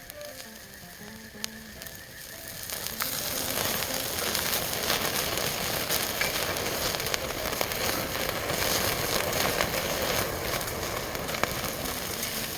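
Food sizzling hard in hot fat over a camp fire, starting about three seconds in and carrying on steadily with scattered crackles and pops. Faint background music before the sizzle starts.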